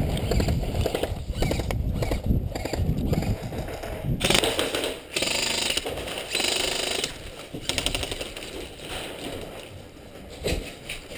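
Airsoft guns firing in fast rattling strings of shots during a room clearance. There are two short rushing hisses near the middle, and quieter scattered clicks towards the end.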